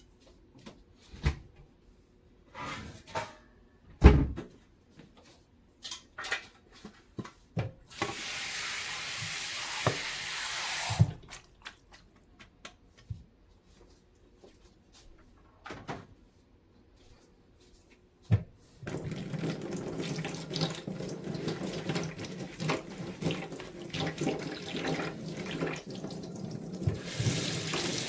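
Kitchen tap running into a sink in spells, with knocks and clatter of things handled at the sink between. The tap runs for about three seconds, stops with a knock, then about two-thirds of the way in runs on steadily, splashing over items in the sink with many small knocks.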